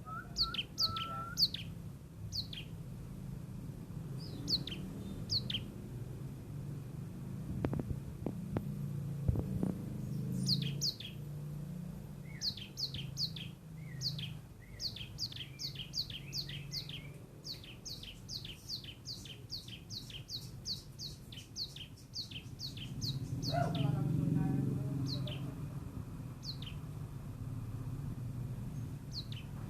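A songbird giving sharp, down-slurred chirps, scattered at first and then in a fast run of two to three a second through the middle before thinning out again. A low steady rumble runs underneath.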